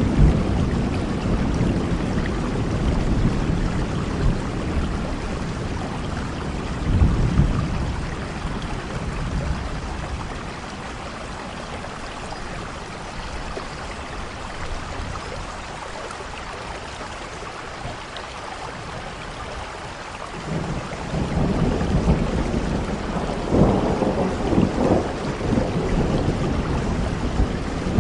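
Heavy rain falling steadily, with thunder rumbling. The thunder fades away about a third of the way through and rolls back in loudly about two-thirds through.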